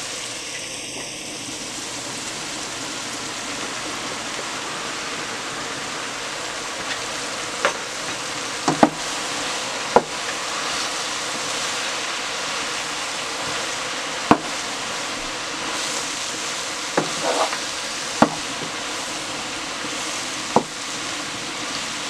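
Diced eggplant frying in hot oil with onions and tomatoes in a pot, a steady sizzle. A spoon stirring the pieces knocks sharply against the pot several times through the second half.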